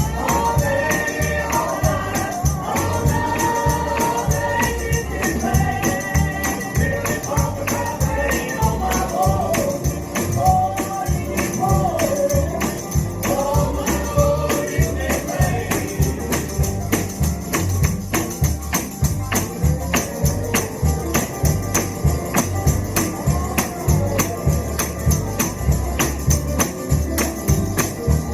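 Gospel music with a tambourine beaten on a steady fast beat and voices singing over it; the singing fades about halfway through while the band and tambourine play on.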